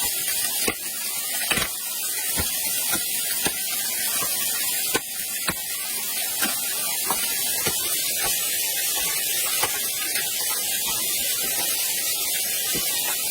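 Steady hiss of rushing water, with sharp knocks or clicks coming irregularly about once or twice a second.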